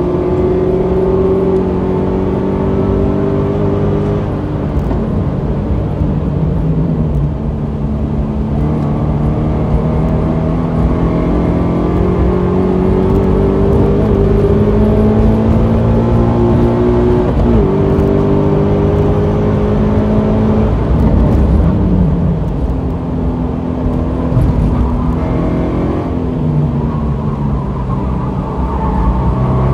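2016 Subaru BRZ's 2.0-litre flat-four engine pulling hard at track speed, heard from inside the cabin. The pitch climbs slowly in gear and falls several times as the driver lifts, brakes and shifts for corners.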